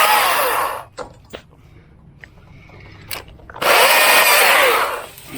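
Stihl MSA 220 TC battery top-handle chainsaw running in two short bursts of about a second each, one at the start and one a little after halfway. Its whine falls in pitch as the motor winds down after each burst, with a few light clicks in between.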